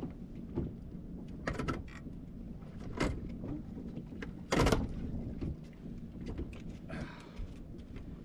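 A boat's engine hums steadily under scattered knocks and clunks. The loudest thump comes about four and a half seconds in.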